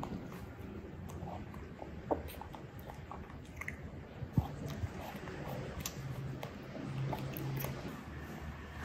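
Baby macaque chewing, with scattered small clicks and smacks from its mouth.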